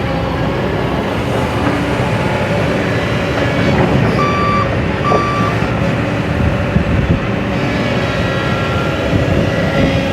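Heavy machinery engine running steadily, with a reversing alarm sounding two short beeps about four seconds in.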